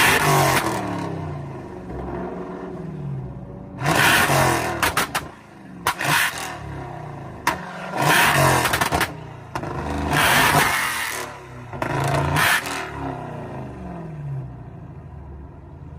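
Jeep Grand Cherokee Trackhawk's supercharged V8 being revved repeatedly while parked, about every two seconds, with loud bursts of exhaust noise on the revs as it shoots flames.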